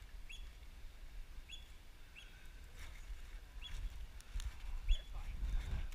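A small bird chirping over and over: short, high, hooked chirps about once a second. Under it is a low rumble of wind on the microphone, with a few knocks near the end.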